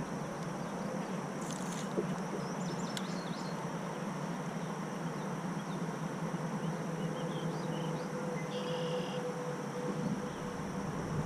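Outdoor lake ambience: birds chirping now and then over a steady high insect drone and a low, even background hiss.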